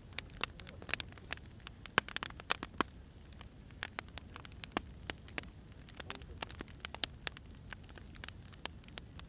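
Wood fire crackling: irregular sharp pops and snaps of burning firewood over a low, steady rushing background.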